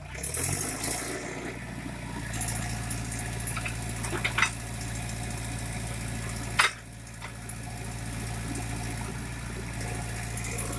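JCB backhoe loader's diesel engine running, revving up briefly at the start, with two sharp knocks about two seconds apart in the middle.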